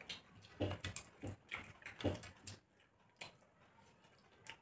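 People chewing and smacking their lips while eating rice and fish by hand: irregular smacks and clicks, several a second at first, thinning out in the second half.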